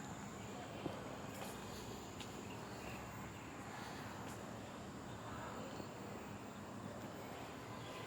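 Faint outdoor ambience with a steady, high-pitched insect drone, like crickets or cicadas, and a few small clicks.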